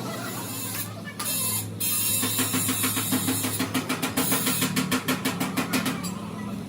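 A motor or engine running steadily, with a brief hiss about a second in and then a fast rhythmic pulsing, about five beats a second, that stops about a second before the end.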